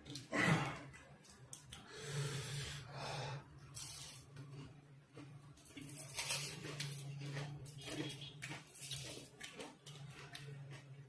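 Close-up eating sounds: chewing fried green-chilli fritters (chilli pakoras), with wet clicks and several hissing breaths drawn in and out against the chilli heat.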